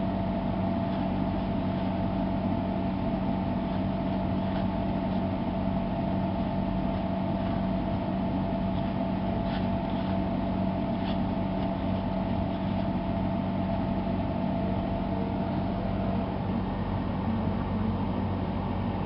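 A steady mechanical hum at an even level, with a low drone and a couple of higher fixed tones, and a few faint light ticks over it.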